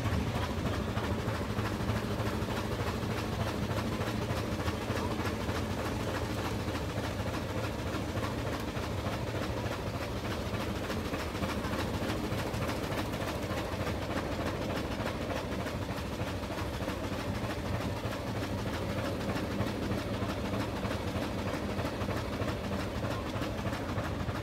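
Brienz Rothorn rack railway train running, a steady low rumble and rattle.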